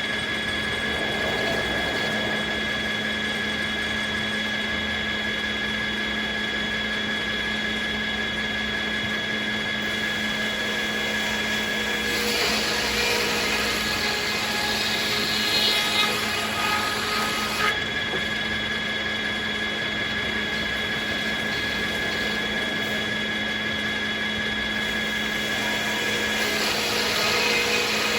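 Circular sawmill running steadily with a constant whine, the blade sawing willow logs; from about twelve seconds in, for about six seconds, the noise grows louder and rougher.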